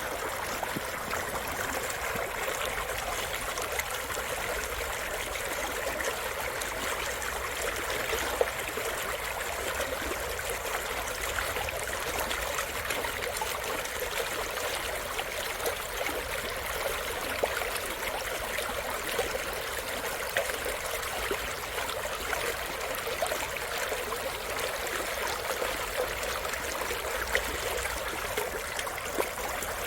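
Mountain stream flowing over rocks: a steady rush of water with small splashes and gurgles.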